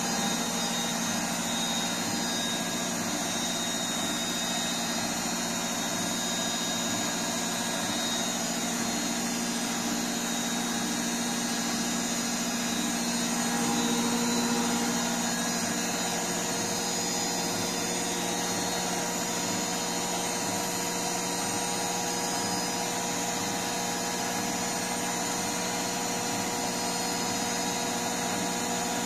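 Electrolux EWS 1076 front-loading washing machine on its spin cycle, the drum turning steadily with an even hum and whine. Its freshly replaced drum bearings run quietly, without rumble.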